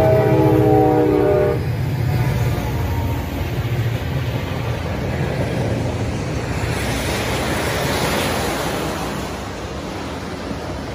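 Air horn chord of a CSX EMD SD40-2 locomotive cutting off about a second and a half in as the unit passes close, over the rumble of its two-stroke diesel. Then the steady rolling noise of the train's flatcars loaded with long welded rail going by, loudest a few seconds before the end.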